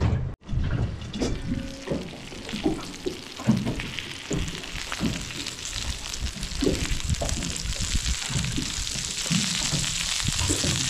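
Crumbed butterfish pieces sizzling as they fry on a barbecue griddle, the hiss growing stronger a few seconds in, with the tongs knocking and scraping on the pan as the pieces are turned.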